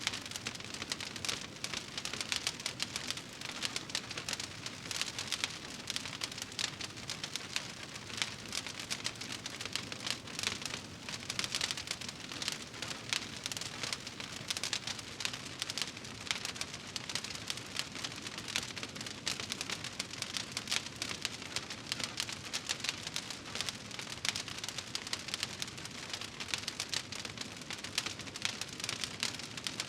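Wood fire in a fireplace crackling steadily, with dense small pops and snaps over a constant hiss.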